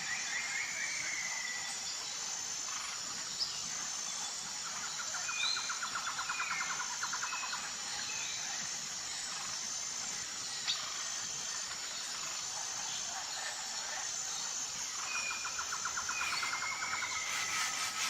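Forest birds calling, with two rapid trills and scattered short chirps and whistles, over a steady, high, pulsing insect chorus.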